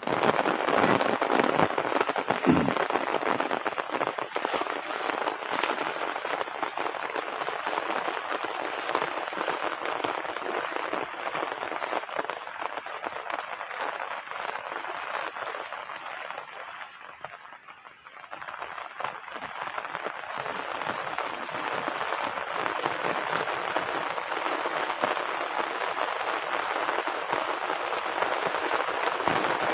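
Heavy rain falling and pattering on a surface, a dense, even crackle of drops. It eases for a moment a little past halfway and then comes back as strong as before.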